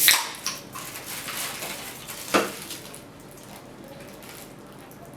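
Tableware knocking on a table: two sharp knocks about two and a half seconds apart, with light clatter between them.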